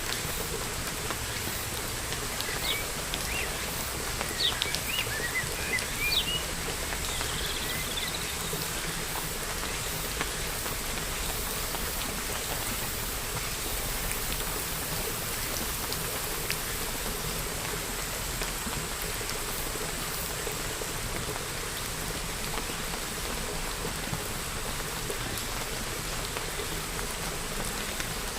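Steady rain falling, an even hiss of drops throughout. A bird chirps several times in quick short calls in the first third.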